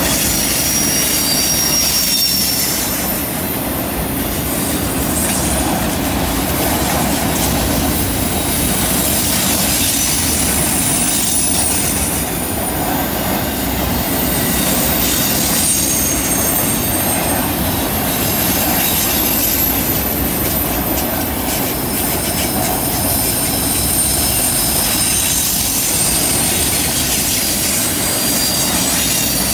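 Autorack freight cars rolling past on a curve: a steady rumble and clatter of steel wheels on rail, with thin high-pitched wheel squeals coming and going.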